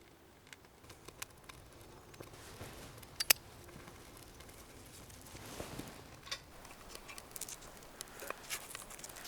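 Scattered light clicks, taps and rustles of hands working with wood and food at a campsite, with one sharp double click about three seconds in and a brief soft rustle near the middle.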